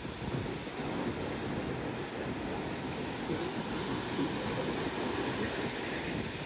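Surf breaking and washing up the beach in fairly big waves, with wind buffeting the microphone into a steady, low rumble.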